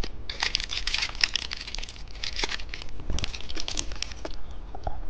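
Chocolate candy wrapper being crinkled and torn open: a dense run of crackling that stops about four seconds in.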